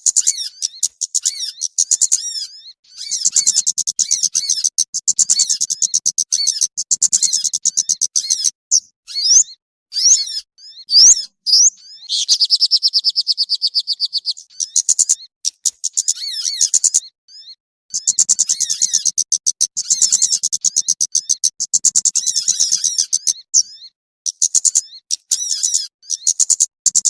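Small songbirds chirping and trilling fast and high, in dense runs broken by short pauses, with one longer steady trill about halfway through: a bird-lure (pikat) call track for attracting small birds.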